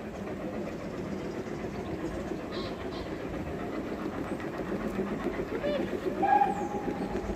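Steam-hauled train pulling in behind a BR Standard Class 2MT locomotive, wheels rumbling and clattering over the rails, with a brief squeal about six seconds in.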